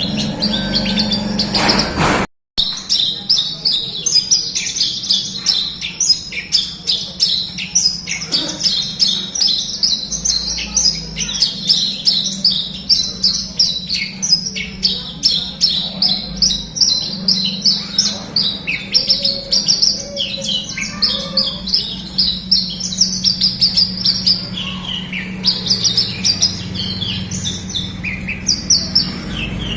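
Javan bush lark (branjangan) singing vigorously: a continuous, fast stream of high chirps and trills with no pauses. The song cuts out completely for a split second about two seconds in.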